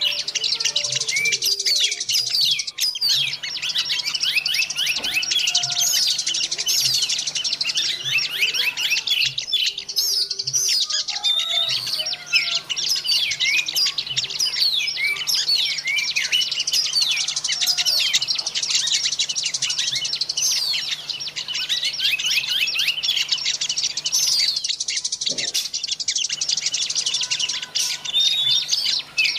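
A dense chorus of many small songbirds chirping and twittering over one another without pause: a bird-lure (pikatan) recording of mixed small wild birds. A faint steady low hum runs underneath.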